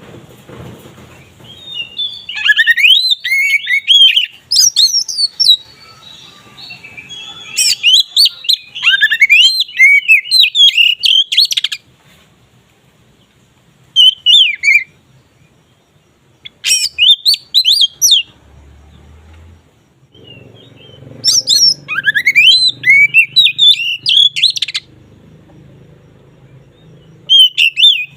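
Oriental magpie-robin (kacer) in full song: loud bursts of rapid, varied whistled phrases with quick rising and falling notes, each burst lasting one to four seconds, separated by short pauses.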